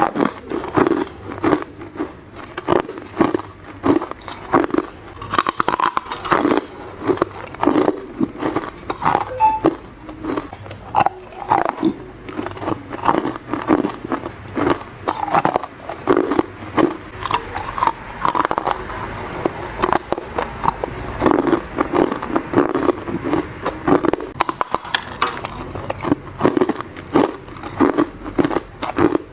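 A person biting into hard ice, close up: a steady run of sharp cracks and crunches, one or two bites a second.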